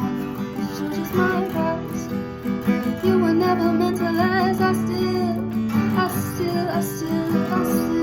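Acoustic guitar strumming chords in the song's outro, with a wordless sung melody over it.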